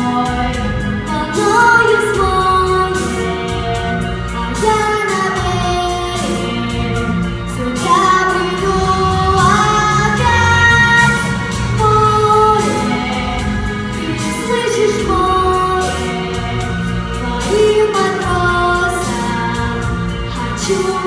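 A song: a high solo singing voice with held, gliding notes over instrumental accompaniment with a steady beat.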